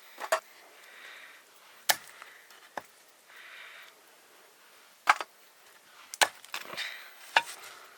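A blade chopping onto wood: about six sharp strokes at uneven intervals, with softer scraping between them.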